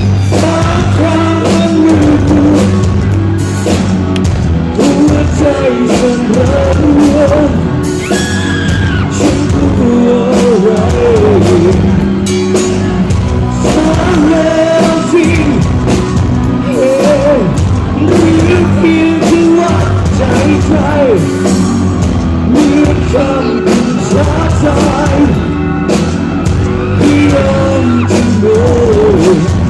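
Rock band playing live and loudly on amplified instruments and drums, with singing over the music.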